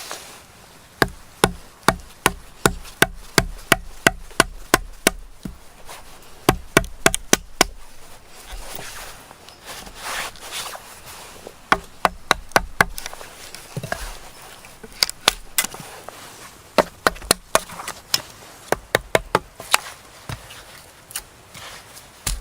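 A tool striking wood again and again: sharp knocks in quick runs of about three a second, broken by short pauses.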